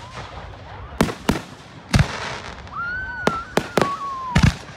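Fireworks bursting: about seven sharp bangs at uneven intervals, three of them close together in the second half. A high whistle is held for about a second and a half, falling in pitch as it ends.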